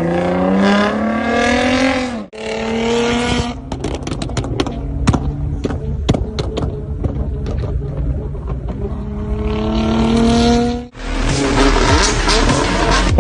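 A modified performance car's engine revving, its pitch climbing. After an abrupt cut, the exhaust pops and crackles in a rapid string of sharp bangs, and the engine climbs again. After a second cut, a loud, dense rushing noise fills the last couple of seconds.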